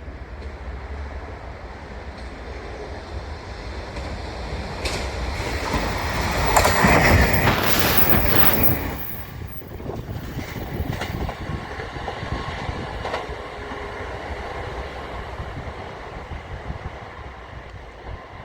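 A train passing close by on the Kagoshima Main Line. It grows steadily louder to its loudest about seven to eight seconds in, with a high, hissing wheel noise, then falls off suddenly and runs on more quietly.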